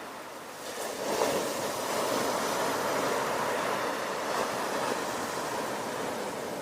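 Ocean surf: a wave breaks about a second in, followed by a steady wash of foaming water.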